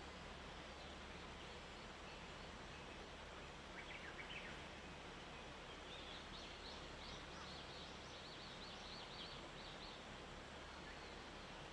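Small birds calling over a faint, steady background hiss and low hum: a few short chirps about four seconds in, then a rapid run of high, short notes from about six to ten seconds.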